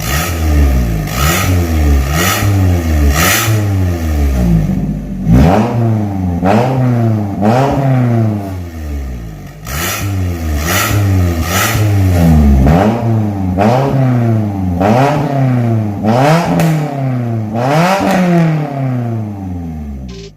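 Toyota Camry engine revved repeatedly through an aftermarket valved stainless cat-back exhaust. The revs rise and fall about once a second in quick blips, with a short dip in the middle.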